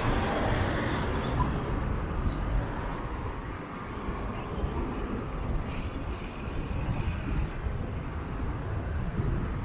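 Steady rushing noise of a bicycle ride on a wet path: wind buffeting the microphone and tyres on the wet ground.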